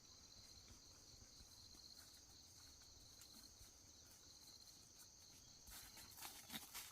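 Faint, steady shrilling of insects, a high pulsing trill like crickets. Rustling and crackling starts up about a second before the end.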